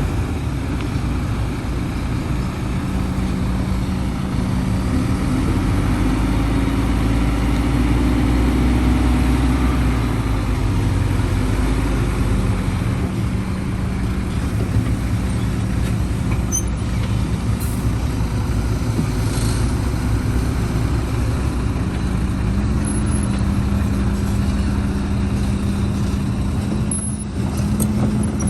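Heavy diesel construction machinery running steadily, its engine note stepping up slightly about three-quarters of the way through.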